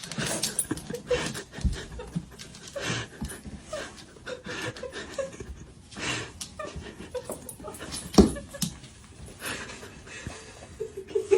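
A dog panting hard, with scuffling and scattered knocks, and one louder thump about eight seconds in.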